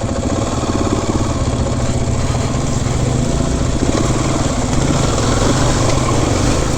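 Single-cylinder four-stroke dirt bike engine running steadily under way on the trail, its rapid firing pulses carrying through with a rushing noise.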